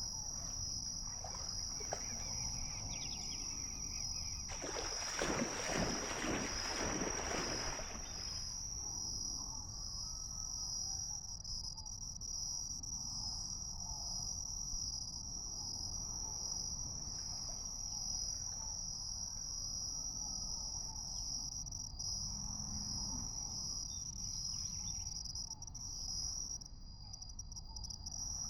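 Steady high-pitched insect chorus, a continuous trilling that pulses slightly. About five seconds in, a louder rushing noise rises over it for about three seconds and fades.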